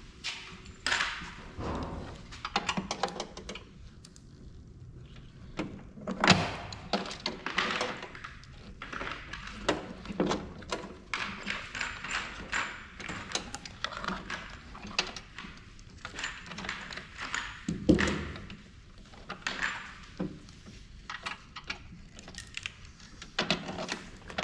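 Metal tools and printer parts being handled during a teardown: an irregular run of clicks, clinks and knocks, with two louder knocks about six seconds in and near eighteen seconds in.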